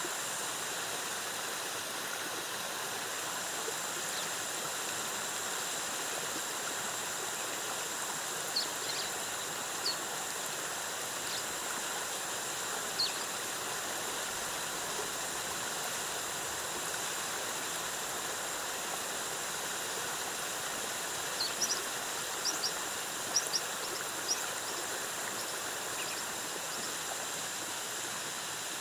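Waterfall cascading with a steady rushing hiss. A high, steady hum sits over it, with a few short high chirps scattered through the first half and a quick cluster of them near the end.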